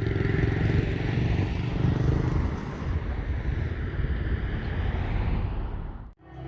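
A vehicle's engine running steadily with a low hum and road noise, which cuts off abruptly about six seconds in.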